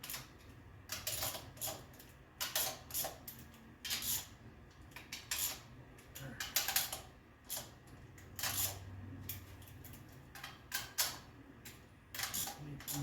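Irregular metal clicks and clinks of hand tools and carburetor parts being handled and threaded on during installation, in short clusters a few seconds apart.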